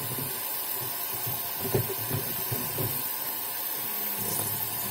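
Tap water running steadily into a sink, with a few soft bumps from handling wet fabric.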